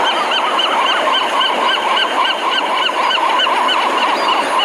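A chorus of many pelicans calling at once: short, overlapping honking notes packed densely, like a colony.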